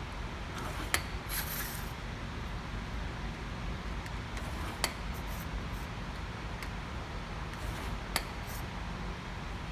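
Lines being drawn over a sheet-metal layout, short scratchy strokes on the metal, with three sharp clicks of a tool set down on the sheet about a second, five seconds and eight seconds in, over a steady low hum.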